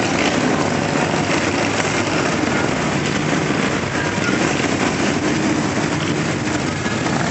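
A procession of motorcycles riding past, many engines running together in a steady, continuous rumble.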